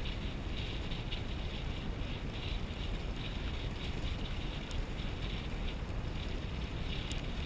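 Wind buffeting an action camera's microphone during a fast ride: a steady low rumble with a constant rushing hiss.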